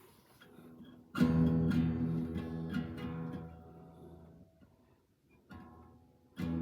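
Acoustic guitar: a chord strummed about a second in that rings and slowly fades away, then another strummed chord near the end.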